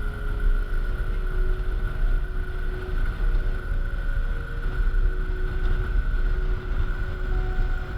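A motorcycle running at road speed, heard through a bike-mounted camera microphone, with heavy wind rumble buffeting the mic over a steady engine drone.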